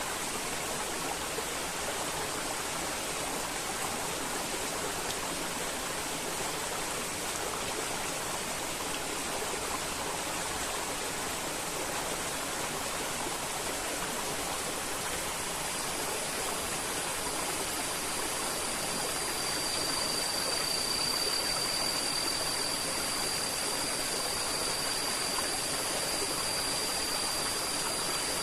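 River water flowing with a steady, even rush. About halfway through, a thin, steady high-pitched tone joins in and holds.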